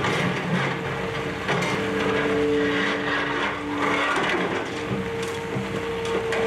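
Demolition excavator tearing down a building: its engine and hydraulics hum steadily while building debris crunches and cracks, with several sharp knocks along the way.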